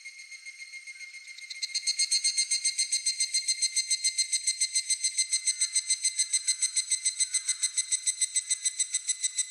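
Higurashi (evening cicada) singing: a fast, even train of high pulses that starts about a second and a half in and stays loud. Underneath is a faint, steady, high-pitched insect drone.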